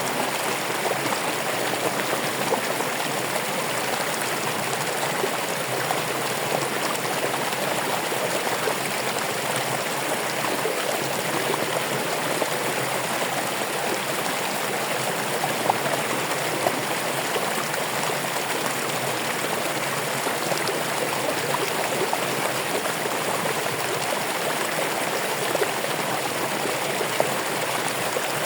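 Running water: a stream flowing steadily, with small splashes and trickles.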